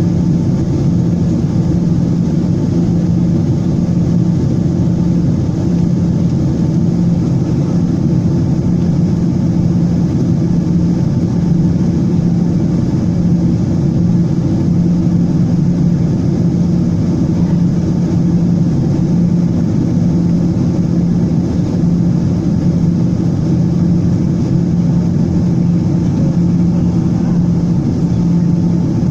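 Steady jet engine and airflow drone inside an airliner cabin, with a low hum holding one pitch throughout.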